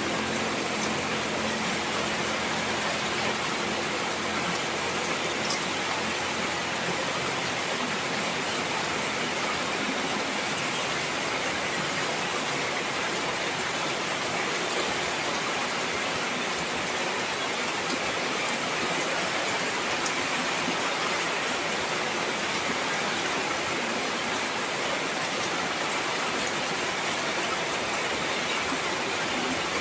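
Heavy rain falling steadily, a dense, even hiss of rain with fine pattering of drops on surfaces.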